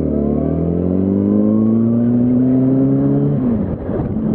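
Yamaha R1 inline-four engine pulling under acceleration, its pitch rising steadily for about three seconds. Near the end the revs drop sharply, as at a gear change or when the throttle is rolled off, and then hold steady.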